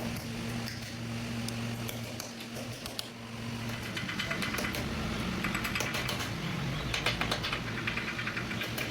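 A steady low mechanical hum for the first few seconds, then rapid, irregular clicking and ticking.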